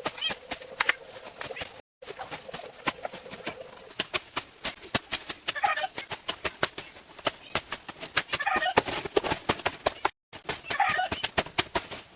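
Many quick, sharp knocks with a steady high whine behind them, and a short call about every two and a half seconds from the middle of the stretch on. The sound drops out briefly twice.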